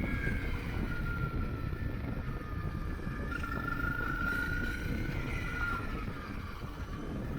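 Motorcycle being ridden, its engine running under a dense low rumble of wind and road noise, with a thin whine that slowly rises and falls in pitch as the speed changes.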